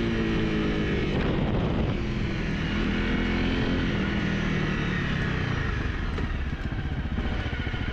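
The single-cylinder engine of a 2020 Honda CRF250 Rally running at low revs after slowing down. Near the end it settles to an idle with separate, evenly spaced firing pulses.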